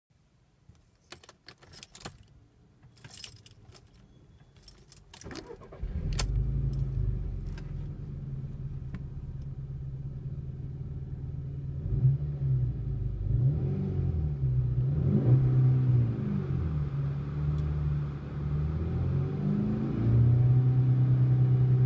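Keys jangle and click for about five seconds. Then a 2013 Volkswagen Polo GTI's 1.4 TSI twincharged four-cylinder starts with a loud flare and settles to a steady idle through its standard exhaust. A few short free revs rise and fall in the second half.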